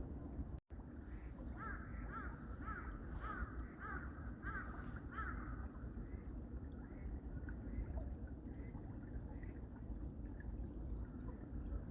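A bird calls a quick run of about eight short repeated notes over a steady low rushing background. The sound drops out completely for an instant near the start.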